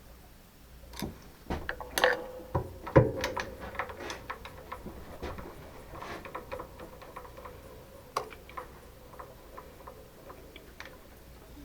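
Metal clinks and knocks of tools and parts being handled, with a few sharper strikes between one and three seconds in that leave a ringing tone, then lighter scattered ticks.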